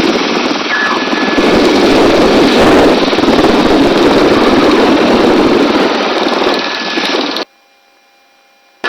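Helicopter in flight: a loud, steady rushing drone of turbine and rotor. It drops away abruptly about seven seconds in and comes back at the very end.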